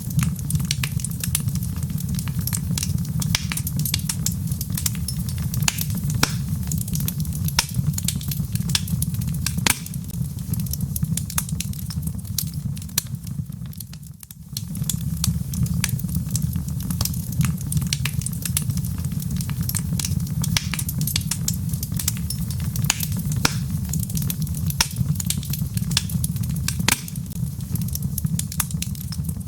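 Burning logs crackling in a fireplace: frequent sharp pops and snaps over a steady low rumble of the fire. The sound dips briefly about halfway through, then carries on as before.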